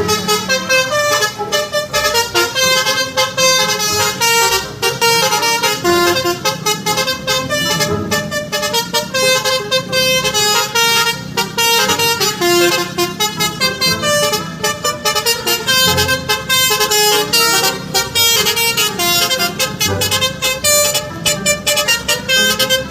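A fast tune of short horn-like notes over a steady beat, with the pitch jumping from note to note.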